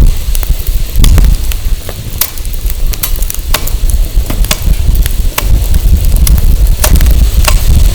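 Firewood burning in an open fire, crackling with irregular sharp pops, over a heavy low rumble of wind on the microphone.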